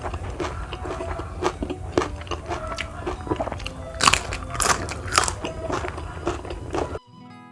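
Close-miked crunching and chewing of crisp food in the mouth, a quick irregular run of crunches that grows loudest about four to five seconds in. The chewing cuts off abruptly near the end.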